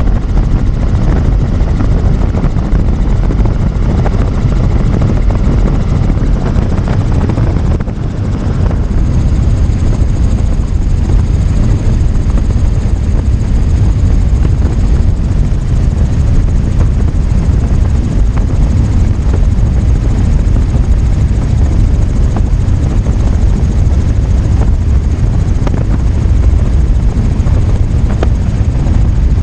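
Helicopter in flight: loud, steady rotor and engine noise, dipping slightly for a moment about eight seconds in.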